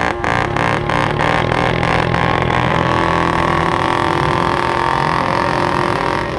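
Motorcycle engine revved and held at high revs, pulsing about four times a second for the first two seconds or so, then running steadily.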